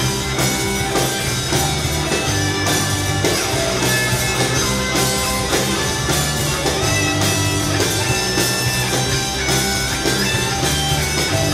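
Live rock band playing an instrumental break: an electric guitar carries the melody over bass and steady drums, with no vocals.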